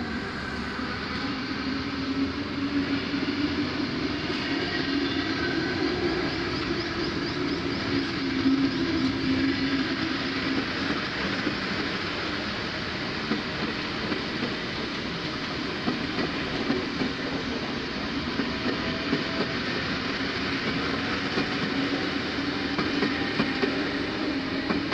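Sydney electric double-deck suburban trains, a Tangara set among them, passing close by on neighbouring tracks: a steady rolling rumble of wheels on rail with clatter and a motor hum.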